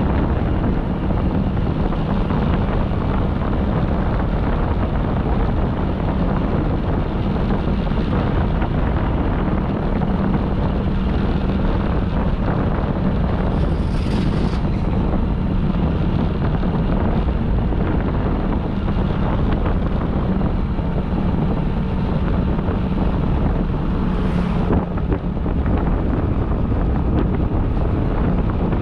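Wind buffeting the microphone of a moving motorbike, over the steady drone of its engine. Two short hisses break through about halfway and again near the end.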